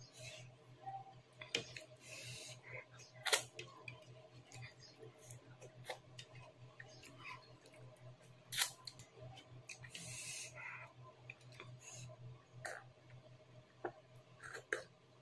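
Eating with the fingers close to the microphone: irregular sharp mouth clicks and smacks from chewing rice and chicken, with two short hissing noises.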